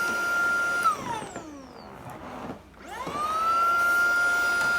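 Tineco cordless stick vacuum's motor whining steadily, then switched off about a second in and winding down in pitch, and switched back on near the three-second mark, spinning up to a steady whine again.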